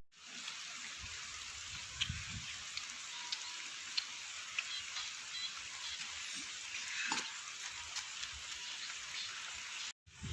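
Steady hiss of rain falling, with a few scattered drops ticking sharply.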